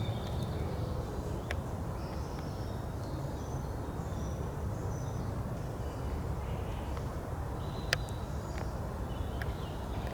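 Forest ambience: a steady low rumble with faint bird chirps scattered throughout, and a few sharp clicks, the clearest one about eight seconds in.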